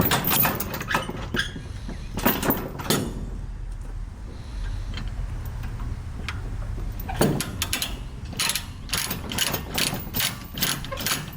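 Metal ratcheting and clanking in two runs of quick clicks, quieter for a few seconds in the middle, from trailer tie-downs being worked, over a low steady engine hum.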